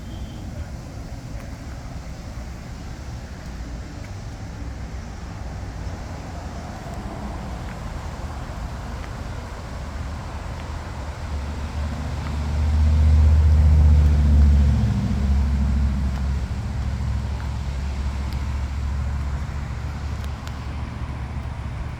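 Car engine rumbling, growing louder to its loudest about 13 seconds in and then easing off, as a car drives close by.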